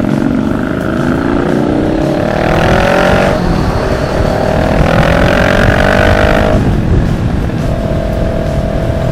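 Kawasaki 650 parallel-twin motorcycle engine accelerating through the gears. Its pitch climbs, drops at an upshift about three seconds in, climbs again, and after another shift near seven seconds holds steady at cruise, with wind rush on the headset microphone.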